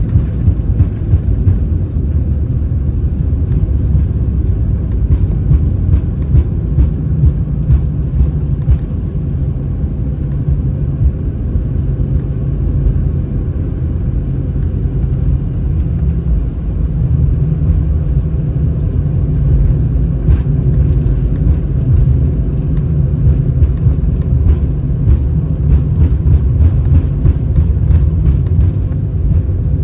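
Cabin noise inside an Airbus A319: a steady low rumble from the CFM56 engines and airframe, with frequent light rattles and knocks from the cabin fittings.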